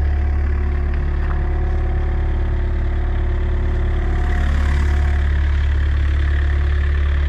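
Mini excavator's diesel engine idling steadily, a deep even hum.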